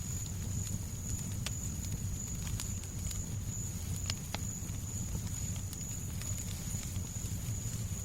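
Fireplace crackling, with irregular sharp pops over a steady low rumble and soft white-noise hiss. A thin steady high tone runs underneath.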